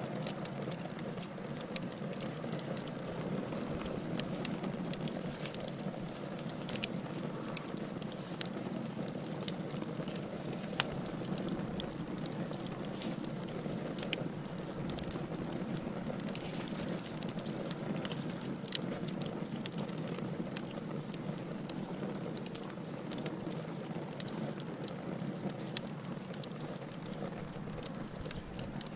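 Wood fire crackling in a fireplace: frequent sharp snaps and pops scattered over a steady hiss.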